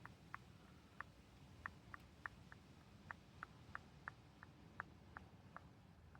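Fingernails scratching and tapping at the camera for ASMR: soft, short clicks and scratches, unevenly spaced at about two or three a second, over a faint low hum.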